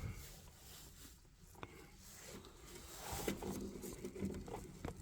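Faint handling noises of boiler parts being worked on: a single small tick, then from about halfway scattered light clicks and rustling.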